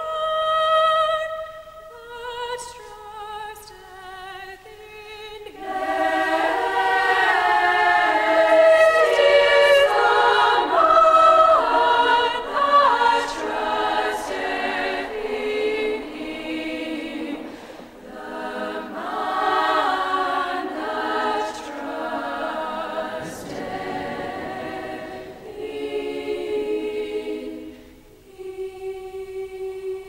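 Choir of girls' voices singing: a single voice at first, the full choir coming in about five seconds in, ending on a held low note.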